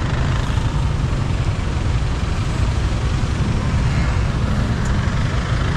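Motorbike riding along a road: steady engine and road noise.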